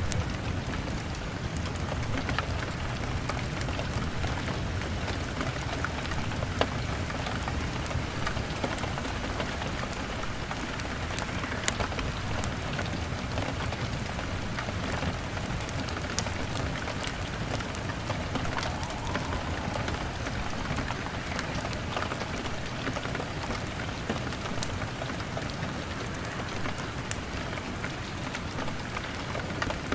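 Steady rain pattering on window glass, with scattered sharp crackles and pops from a wood fire at irregular moments.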